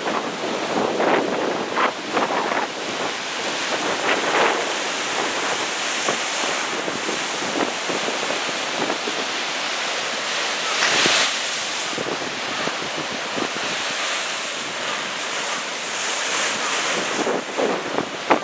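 Heavy, rough storm surf breaking and washing ashore, with wind buffeting the microphone. One louder surge comes about eleven seconds in.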